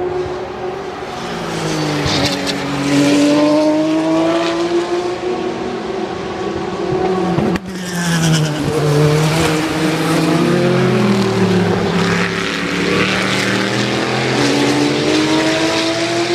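Racing cars' engines at full song at Le Mans, revving through the gears: the engine note drops as they come off the throttle and downshift, then climbs again as they accelerate away. This happens twice, with a brief break about seven and a half seconds in.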